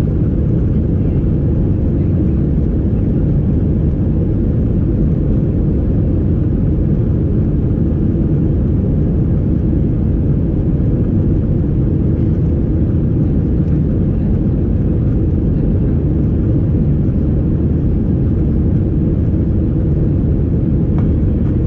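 Steady low cabin noise inside a Boeing 737-800 airliner in flight: engine and airflow noise that runs unchanged, strongest in the low end.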